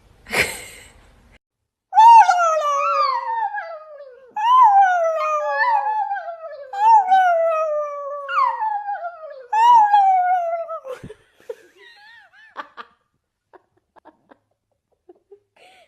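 A dog whining and howling in a run of about six long cries, one after another, each sliding down in pitch. A short breathy burst comes just before them.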